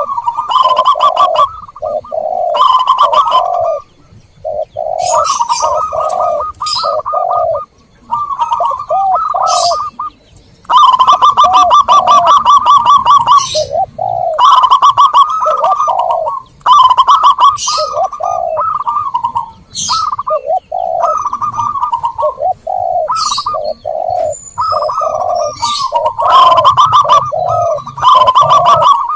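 Zebra doves and spotted doves cooing over each other in a dense, continuous chorus: a string of low, round coo notes overlapping with rapid trilled phrases a little higher, with a few thin high chirps from smaller birds. This is a dove lure call, played to draw wild doves in.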